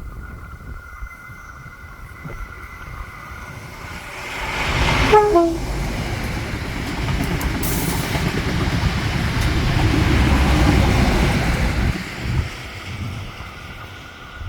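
An XPT diesel passenger train passing at speed. About five seconds in, a brief horn note falls quickly in pitch as the train goes by, then the power car and carriages rumble past. The rumble fades near the end.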